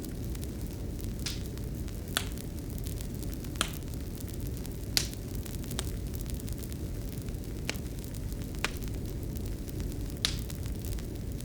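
Fireplace fire burning, with a steady low rumble and about eight sharp, irregularly spaced crackles and pops.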